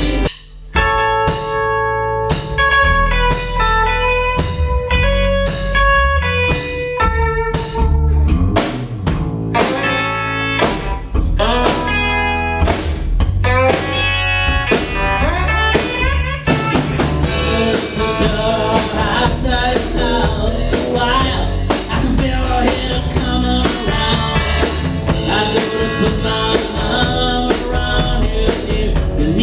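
A band playing blues: a guitar plays a single-note melody over drums and bass. The music drops out for a moment about half a second in, and from about the middle the whole band grows denser.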